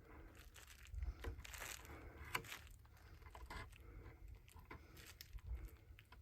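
Faint, intermittent tearing and crinkling with small clicks: wet fiberglass cloth being cut and peeled away from the drum shell with an X-Acto knife.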